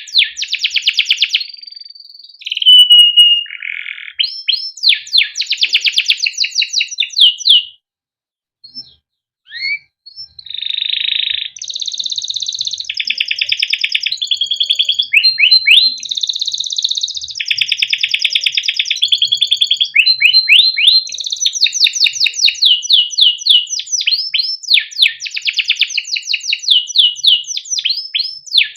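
Male domestic canary singing a long, vigorous song of fast rolling trills and rapidly repeated chirps. The song breaks off for about two seconds about a third of the way in, then resumes.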